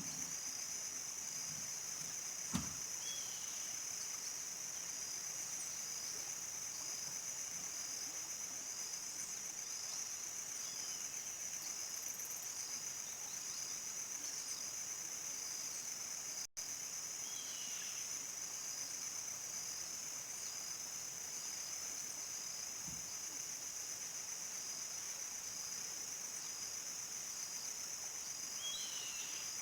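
Crickets trilling in a steady high-pitched chorus, a continuous fast pulsing chirr. A few faint short chirps from another animal come through now and then, there is a single knock about two and a half seconds in, and the sound breaks off for an instant about halfway.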